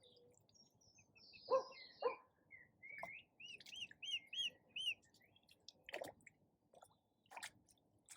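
Ducks quacking: two short quacks close together, then a few more spaced out. Between them a small songbird sings a phrase of repeated, arched whistled notes.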